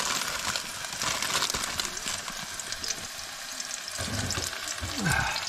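Sliced mushrooms sizzling and crackling in hot oil in a saucepan as more slices are dropped in.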